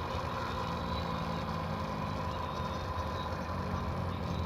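A vehicle engine running steadily: a low, even drone that holds the same pitch throughout.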